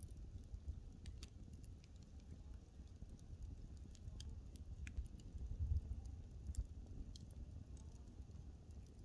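Wood fire crackling: irregular sharp snaps and ticks scattered over a low, steady rumble of the flames, with the rumble swelling briefly a little past halfway.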